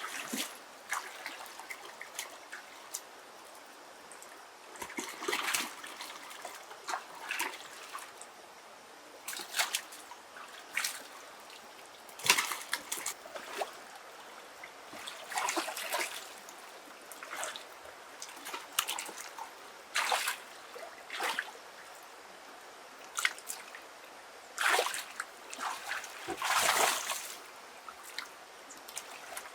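Water splashing and trickling in irregular bursts a second or two apart, with quieter stretches between; the biggest splashes come about twelve seconds in and again about twenty-five to twenty-seven seconds in.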